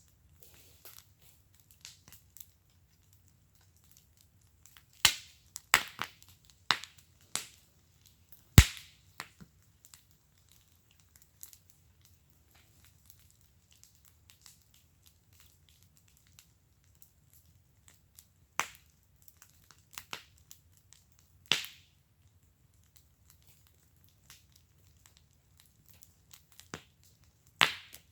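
Wood fire in a fire pit crackling, with sharp pops at irregular intervals: a cluster of loud pops about five to nine seconds in, and single pops later on, one of them near the end.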